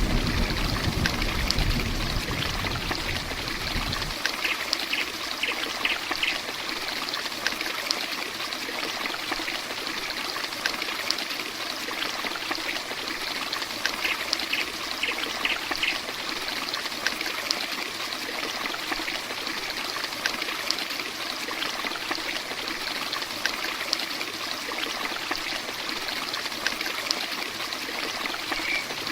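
Heavy rain falling steadily, a dense hiss with scattered sharp drop ticks. A low rumble under it in the first few seconds stops abruptly about four seconds in.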